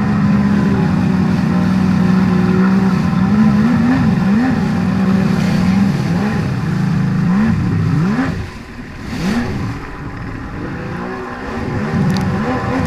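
Yamaha WaveBlaster 1200 personal watercraft engine running hard, holding a steady high note at first, then swooping up and down in pitch several times as the throttle is worked. The engine eases off briefly a little past the middle.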